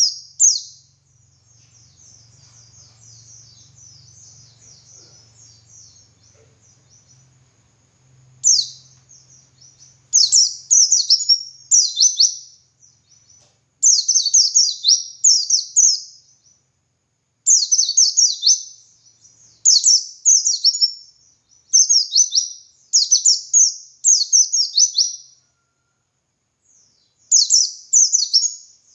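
White-eye (pleci) singing: rapid, high-pitched twittering. It starts as a softer continuous chatter, then from about eight seconds in turns to loud phrases about a second long, repeated with short pauses.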